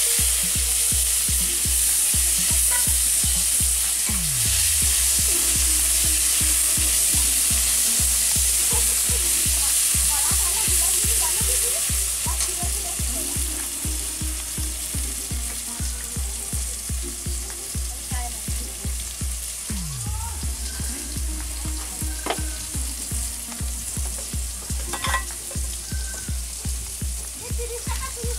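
Fish and tomatoes frying in hot oil in a wok, a steady loud sizzle, with a metal spatula stirring and scraping against the pan. A low, regular pulse runs underneath.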